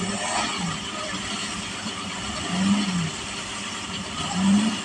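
Off-road vehicle engine running, its pitch rising and falling in short throttle blips. The two loudest revs come about two and a half and four and a half seconds in.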